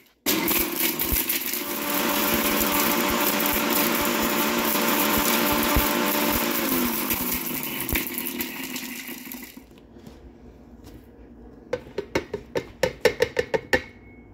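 A Vidiem Vision Blue 650-watt mixer grinder runs at full speed, grinding whole spices to garam masala powder with a steady motor whine. About seven seconds in the motor is switched off and its whine falls away as it spins down. Near the end comes a quick run of sharp knocks.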